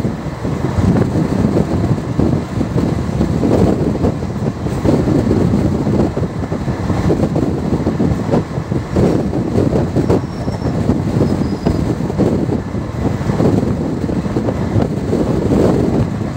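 Ratnachal Express passenger train running on the track: a steady, loud noise of coach wheels on the rails.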